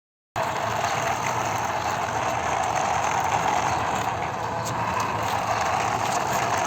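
Steady mechanical whirring with a fine rattle, starting suddenly just after the start.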